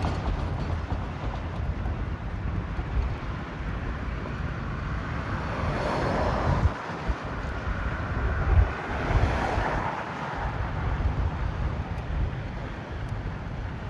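Strong wind buffeting the microphone in a gale, a steady rushing rumble, with two louder rushing swells, one about midway and one near ten seconds in.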